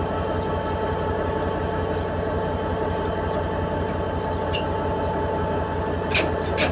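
Diesel train running steadily: a constant low drone with a steady whine over it, and a few light clicks near the end.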